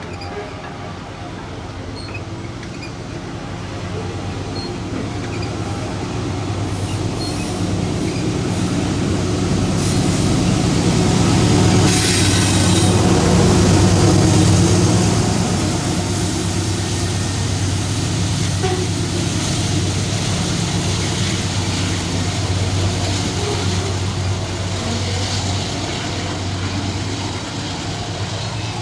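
Diesel freight train passing: the locomotives' engines run with a steady low drone that builds to a peak about halfway through, with scattered metallic clicks around the loudest part, then the rolling wagons keep up a steady rumble.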